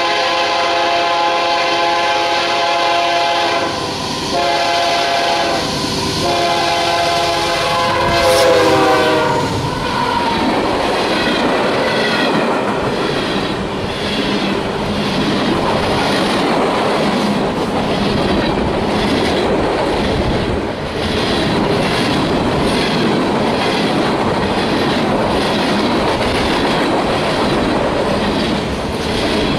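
Diesel freight locomotive horn sounding in three long blasts, its chord dropping in pitch about eight to nine seconds in as the locomotive passes. Freight cars then roll by, a steady rumble with regular clatter of wheels over rail joints.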